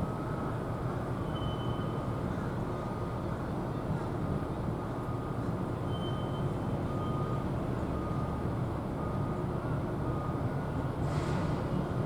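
Steady low rumbling outdoor background noise, with faint short high tones every second or so and a brief hiss near the end.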